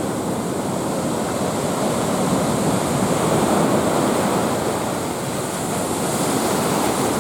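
Ocean surf from a heavy typhoon swell: a steady rush of breaking waves that surges louder about halfway through and then eases.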